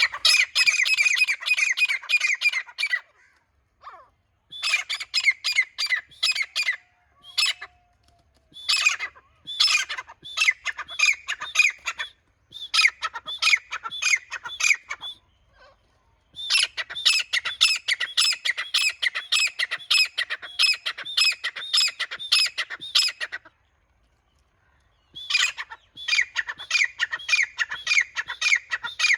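Grey francolin (grey teetar) calling loudly in bouts of rapid, harsh repeated notes. Each bout lasts a few seconds, with short pauses between.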